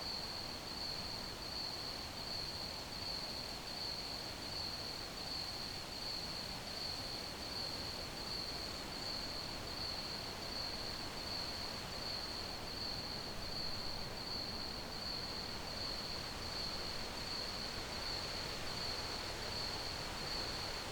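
Crickets chirping in a continuous high-pitched pulsing trill, over a steady background hiss.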